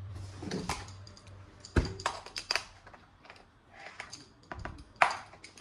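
Irregular plastic clicks and knocks from toy guns and their parts being handled, with two louder knocks, one about two seconds in and one near the end.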